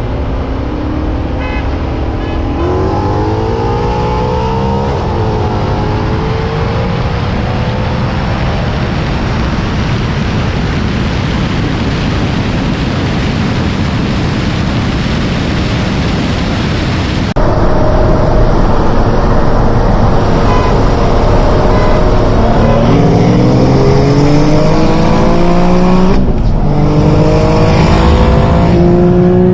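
Performance car engine under hard acceleration, pitch climbing steadily with a break at each gear change, over a heavy rush of wind noise. About two-thirds of the way through, a second, louder run cuts in abruptly and climbs through the gears the same way.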